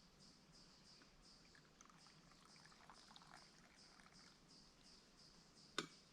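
Near silence with faint, high chirps repeating about three times a second, a few faint crackles in the middle, and one sharp click near the end.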